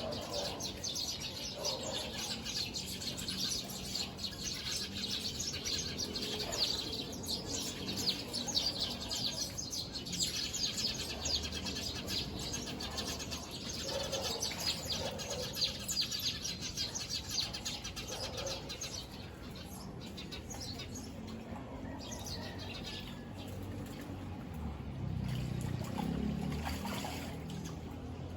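A flock of small birds chirping together in a dense, rapid chorus that thins out about two-thirds of the way through.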